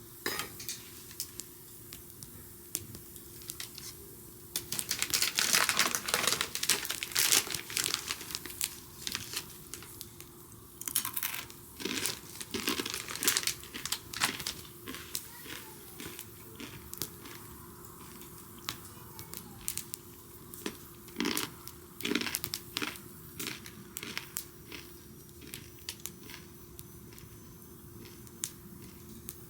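Wood bonfire crackling with scattered sharp pops. About five seconds in, and again near the middle, come spells of dense crinkling. A faint steady hum runs underneath.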